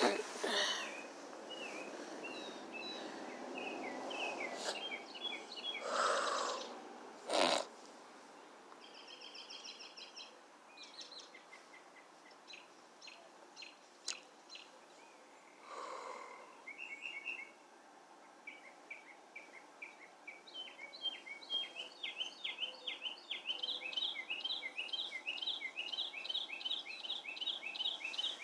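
Birds chirping and calling in short high notes, ending in a fast, even run of repeated chirps, about four a second, through the last third. A few loud rustling noises come in the first several seconds, the loudest about six and seven and a half seconds in.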